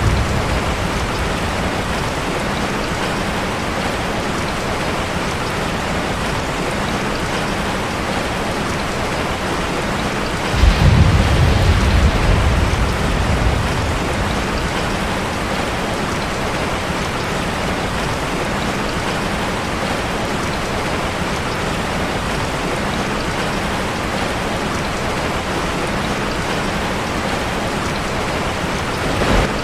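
Steady rain on a metal roof, an even hiss of drops. About ten seconds in, a sudden low rumble comes in and fades away over roughly three seconds.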